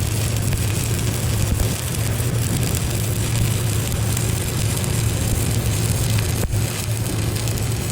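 Shielded metal arc (stick) welding with a 7018 electrode: a steady arc crackle over a low electrical hum, with a momentary drop about six and a half seconds in.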